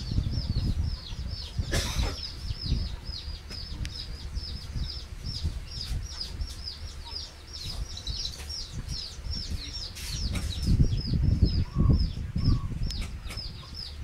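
A bird chirping over and over, about four short falling chirps a second, with low rumbling thumps underneath that are loudest near the end.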